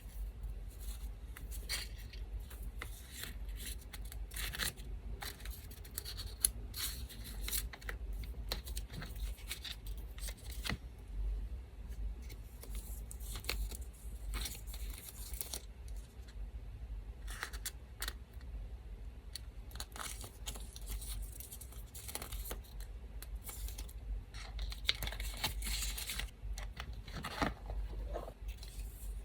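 Scissors snipping and paper tearing and rustling in many short strokes, over the low steady hum of an electric fan.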